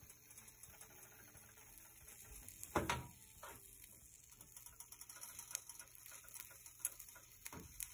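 Light ticks and scrapes of a small silicone spatula working batter in a tiny metal pan, with one louder knock about three seconds in.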